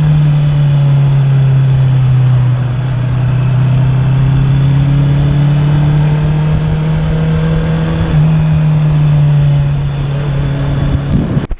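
Honda CB650R's inline-four engine through an Akrapovic exhaust, running steadily under way. The engine note steps down slightly about two and a half seconds in and back up about eight seconds in, then cuts off abruptly near the end.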